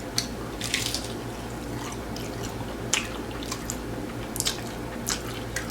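Close-up chewing of crunchy hard taco shells: irregular wet crunches and mouth sounds, several each second or so.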